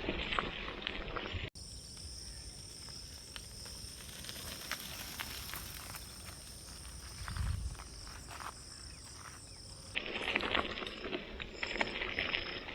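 A steady, high insect drone, as of crickets or cicadas, runs through the middle of the clip over scattered light clicks. At the start and again near the end, abrupt cuts switch to louder crackly crunching and clicking.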